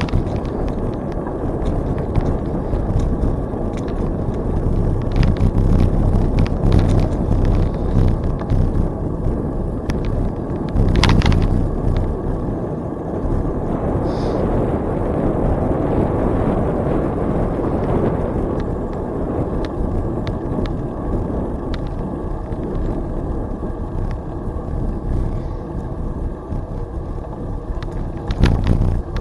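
Riding noise of a bicycle: steady wind rumble on the microphone and tyre noise, with a few sharp clicks and rattles.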